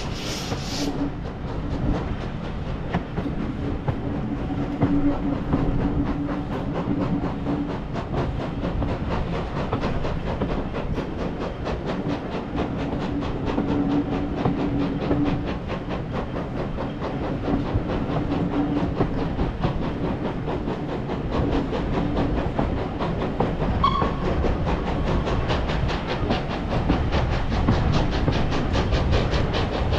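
Heritage steam train running on the rails: a steady rumble with wheels clattering over the track and a low hum that comes and goes. A brief high ping sounds about three-quarters of the way through.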